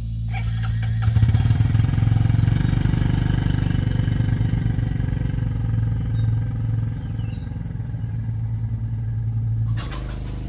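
A small engine running steadily with a fast, even beat. It grows louder about a second in and drops off abruptly near the end.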